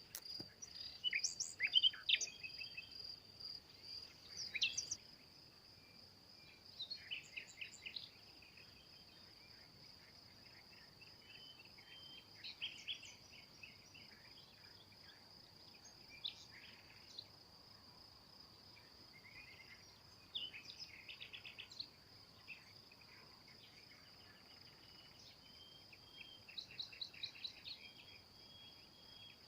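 Small songbirds chirping and singing in short, scattered phrases over a steady high insect trill. The bird calls are loudest in the first five seconds.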